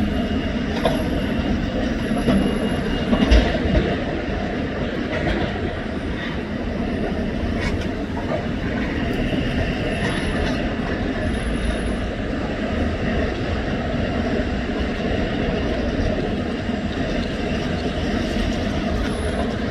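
Heavy demolition machinery working: a steady mechanical rumble, with high metallic squeals now and then, like the tracks of an excavator.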